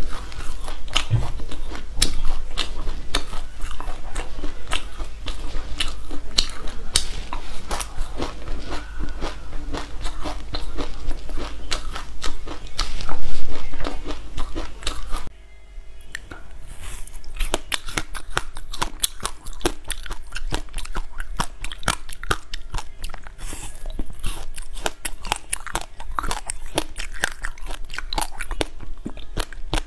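Close-up chewing of mouthfuls of raw sesame seeds: a dense, irregular stream of small crunching clicks. About halfway through, it switches abruptly to biting and chewing a passion fruit ice pop, crunching on its seeds.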